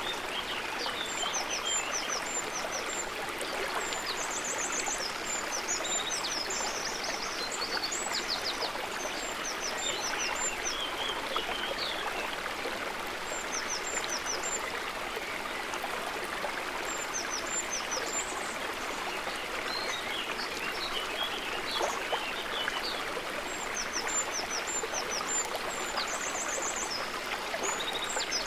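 A river running steadily, an even rushing and trickling of water. Small birds chirp in short high repeated phrases and trills over it throughout.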